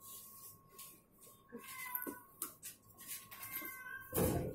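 Cat meowing a few short times during handling, with small rustles and clicks and a louder thump about four seconds in.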